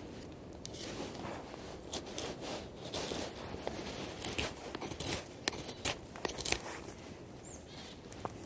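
Dry twigs and wood snapping and crunching: an irregular string of sharp cracks, thickest in the middle few seconds.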